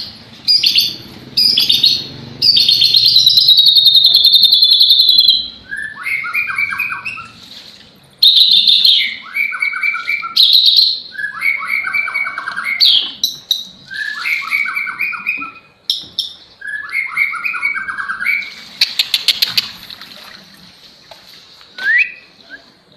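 White-rumped shama singing vigorously, mixing in lovebird-imitation phrases. A long, loud, shrill trill comes first, then a run of repeated phrases that each step down in pitch, then a rapid chattering burst near the end.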